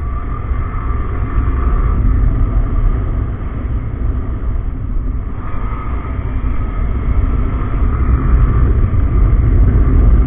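Riding noise on a Yamaha R15M motorcycle: heavy wind rumble on the microphone over the road and engine noise, steady with small swells.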